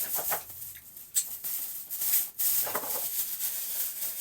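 Thin plastic bag rustling and crinkling as it is handled and filled, with a few sharp clicks.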